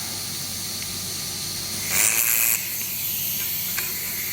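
Wire feeder of a fiber laser welding machine running: a small motor's steady whir over a hiss and low hum from the machine, with a brief louder hiss about two seconds in.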